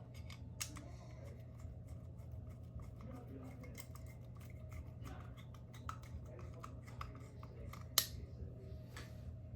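Small metal parts of a track light fixture being handled, giving scattered light clicks and taps, with one sharper click about eight seconds in. A steady low hum runs underneath.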